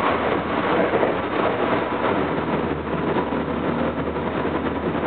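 Running noise heard inside a Tokyo Metro 07 series electric train car at speed: a steady rumble of wheels on rail and the car body, passing through a station without stopping.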